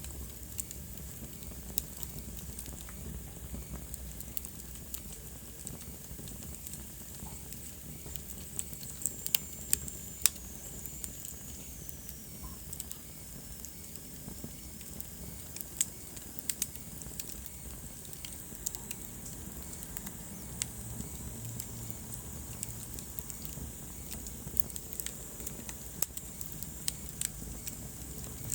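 Wood fire crackling, with irregular sharp pops and snaps over a steady low rumble of flames. A thin high whistle slides down in pitch a little before the middle.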